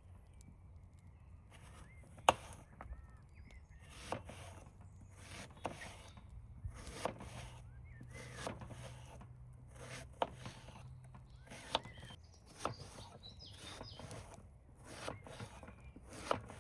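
Irregular knocks and clacks, roughly one a second, with short bursts of rustling between them; the sharpest knock comes about two seconds in.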